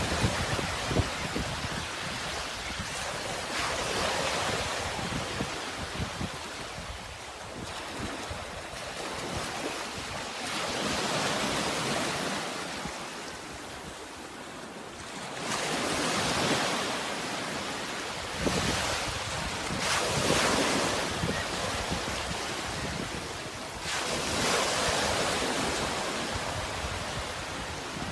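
Sea waves surging and washing in, rising and falling about every few seconds, with wind rumbling on the microphone.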